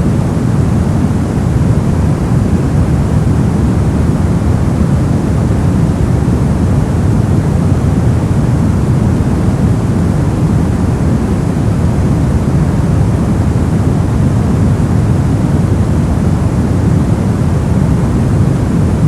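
Steady, unbroken artificial noise of the kind played for sleep and masking. It is a deep, even hush with most of its weight in the low end and little hiss up top, and it holds constant throughout.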